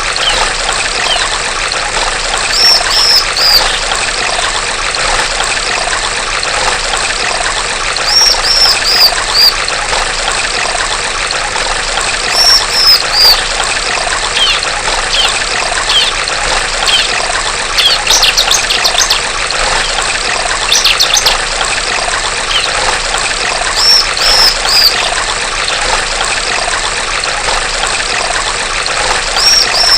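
Steady trickling stream water with a female bar-winged prinia (ciblek) calling over it in short groups of three or four high notes every few seconds, with a busier run of calls a little past the middle.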